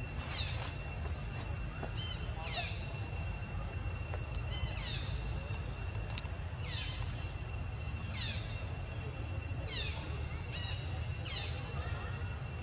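A bird repeats short, falling chirps every one to two seconds over a steady high-pitched whine and a constant low outdoor rumble.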